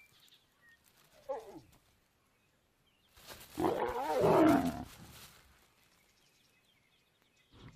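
Lion snarling: a short falling growl about a second in, then a loud, harsh snarl lasting about two seconds.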